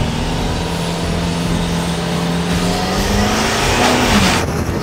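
Engine of a stripped-down car running under load at steady revs, its pitch rising a little about three and a half seconds in and then dropping away, with road and wind noise.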